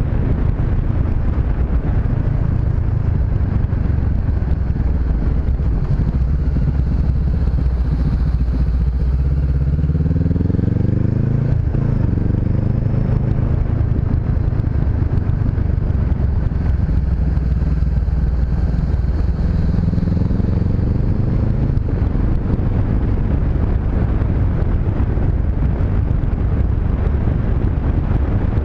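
Honda CB500X's parallel-twin engine running on the road, with wind noise on the microphone. The engine pitch climbs about ten seconds in as it accelerates, drops at a gear change, and rises again near twenty seconds.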